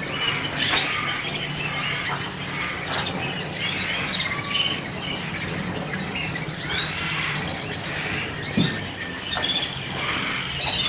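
A roomful of caged pet-shop birds chirping and twittering at once, many short overlapping calls and trills, over a low steady hum.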